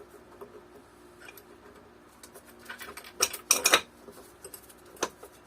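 Metal and wooden parts of a balance bike being handled and fitted during assembly: a quick cluster of clinks and knocks about three seconds in, then one more sharp knock near the end.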